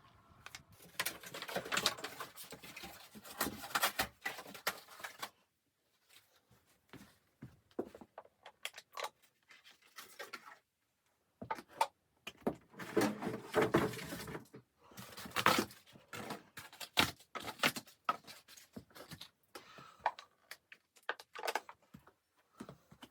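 Close handling noises: crackling, rustling and clicking in two dense spells, one starting about a second in and one around the middle, with scattered single clicks and taps between.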